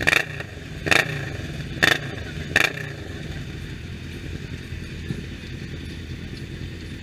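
Motorcycle engines running with a steady low rumble, broken by four short, loud, sharp blasts in the first three seconds.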